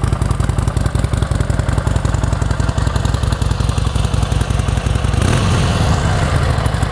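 2014 Harley-Davidson Sportster 1200's air-cooled 1200cc V-twin idling steadily through its factory exhaust, with a brief fuller lift in the sound about five seconds in.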